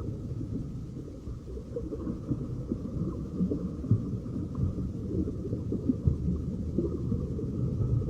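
A continuous low rumble with irregular crackles running through it, over a faint steady hiss.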